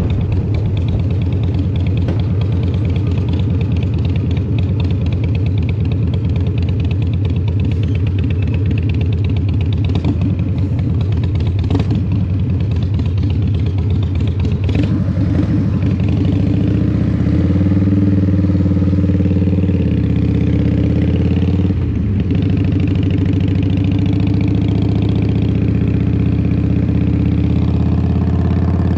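A 2003 Harley-Davidson Fat Boy's Twin Cam 88 V-twin running through a Vance & Hines exhaust under way. It has a rapid, pulsing note in the first half, settles into a steadier, even pitch about halfway in, and dips briefly in pitch a couple of times after that.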